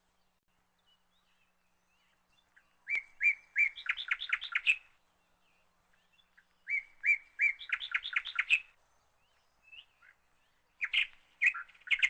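A small songbird singing three short phrases, each a few separate notes followed by a quick run of about eight notes, with quiet gaps between the phrases.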